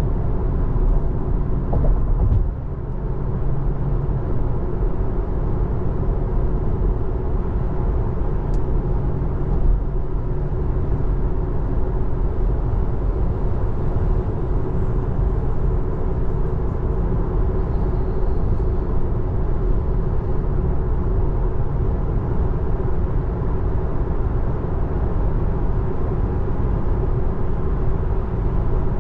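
Steady tyre and road noise inside the cabin of a 2024 Tesla Model 3 Long Range electric car driving along, a low, even rumble with no engine note.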